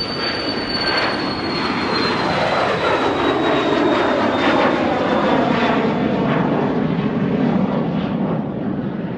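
Jet aircraft passing close by, its engines' high whine slowly falling in pitch as the rumble swells to a peak mid-way and then eases off.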